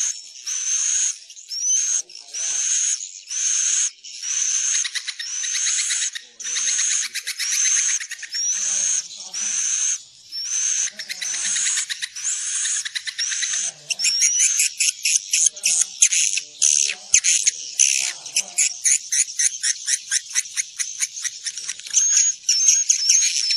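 Swiftlets calling, from a lure recording played to draw swiftlets into a nest house to roost. A chirping call with a rising sweep repeats about once a second. About halfway through it changes to a fast run of clicky, rattling pulses, and the rising chirps come back near the end.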